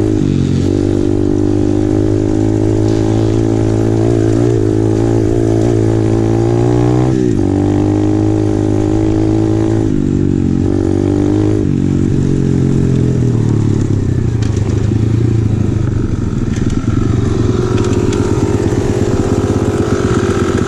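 Apollo RFZ 125cc pit bike's single-cylinder four-stroke engine running under way, its revs rising and falling with the throttle and briefly dipping several times, as at gear changes. In the second half it runs at lower, rougher revs.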